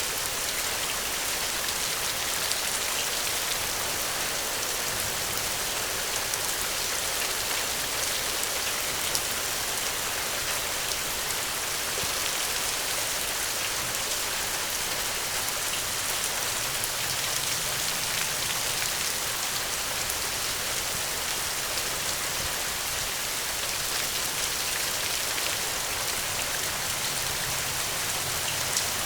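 Steady heavy rain, an even hiss with scattered small ticks of drops.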